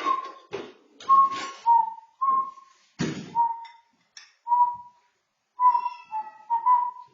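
A person whistling a tune in short notes that step up and down around one pitch, with short noisy bursts between some of the notes.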